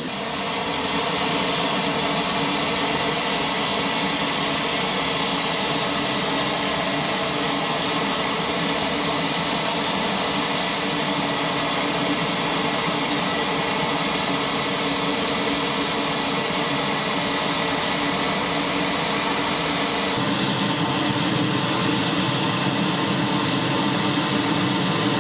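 UH-60 Black Hawk helicopter's turbine engines and rotor running, a steady whine and rush. About twenty seconds in the sound changes to a deeper rumble.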